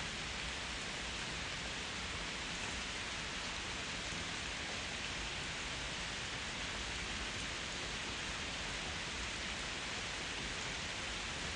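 Steady rain: an even, unchanging hiss of falling rain, with no single drops standing out.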